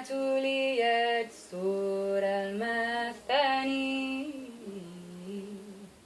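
A woman singing an Arabic devotional song unaccompanied, in three slow phrases of long held notes that glide between pitches; the last phrase fades away.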